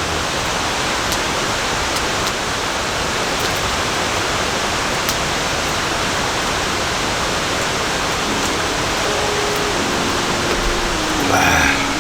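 Steady rain falling in a forest: an even hiss with a few faint drop clicks. From about two-thirds of the way through, soft music notes come in, and there is a brief louder swell near the end.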